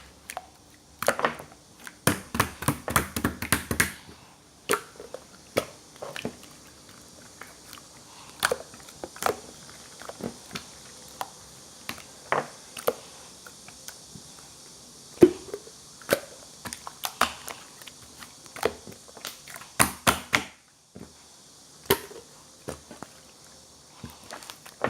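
Slime being squished, pressed and poked by hand, giving irregular sharp clicks and pops, with a quick run of them a couple of seconds in.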